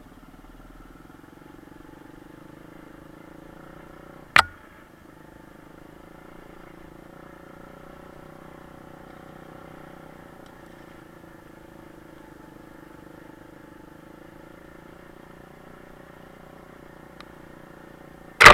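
Kayo pit bike engine running at a steady, unchanging speed, with a sharp knock about four seconds in and a much louder bang at the very end.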